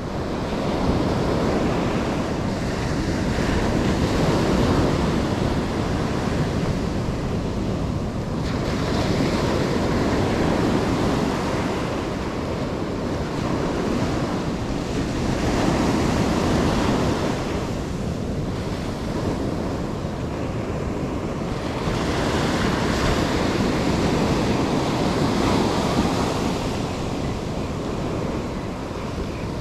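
Ocean surf breaking on the shore, a steady wash that swells and eases every five to seven seconds, with wind buffeting the microphone.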